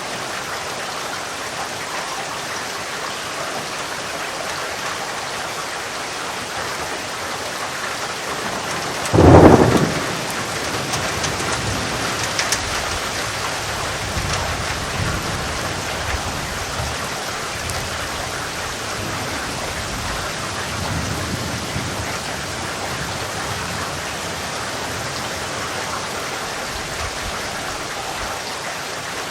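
Steady rain falling, with a sharp, loud thunderclap about nine seconds in, followed by low rolling thunder rumbling for around ten seconds before fading back under the rain.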